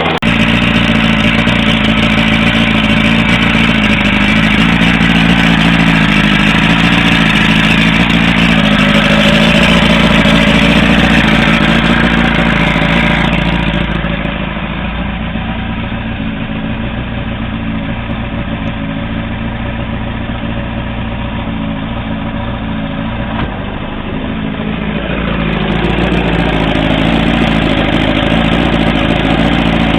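1962 Johnson 75 hp V4 two-stroke outboard motor catching right at the start and running at a fast idle. It drops to a slower, quieter idle about halfway through, then picks up again a few seconds before the end.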